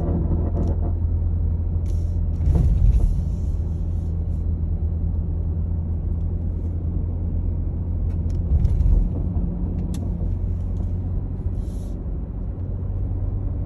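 2020 Jeep Cherokee Trailhawk 4WD running with a steady low drone, with two louder low rumbles about three seconds in and again near nine seconds.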